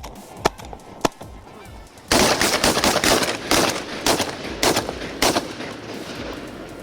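Several shotguns firing at passing Canada geese: a couple of single shots in the first second, then from about two seconds in a rapid volley of overlapping shots that fades off after about three seconds.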